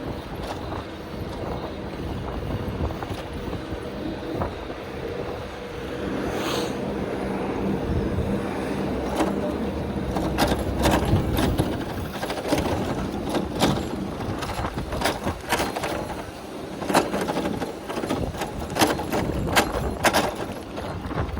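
City traffic heard from a moving bicycle: a steady rumble with the hum of a passing motor vehicle. From about ten seconds in come many short sharp clicks and rattles.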